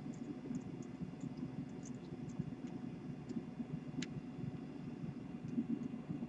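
Faint small clicks and scrapes of the post screws on a rebuildable drip atomizer being tightened down on the coil wire, over a low steady hum; one sharper tick about four seconds in.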